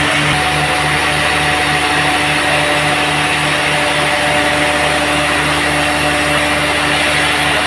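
Sawmill machinery running steadily, with a low hum that pulses about four times a second.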